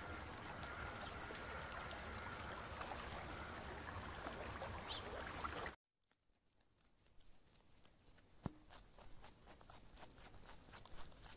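Steady, faint rushing background noise, then after a cut much quieter, irregular small clicks and crunches of rabbits nibbling leaves.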